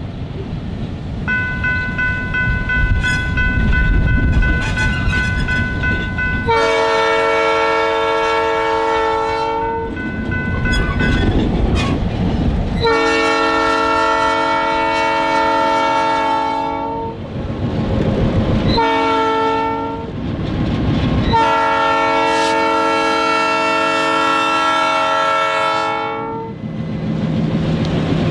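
Diesel locomotive air horn sounding the grade-crossing signal: two long blasts, a short one and a final long one, over the steady rumble of the locomotive and its rolling cars.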